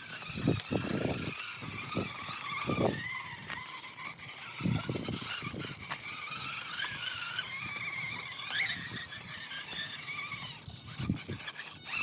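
RC rock crawler's electric motor and gears whining, the pitch wavering with the throttle, with a few low thumps as the truck works over rocks.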